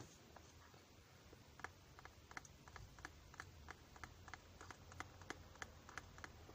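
Faint, irregular light clicks and taps close to the microphone, a few a second, over a low steady hum.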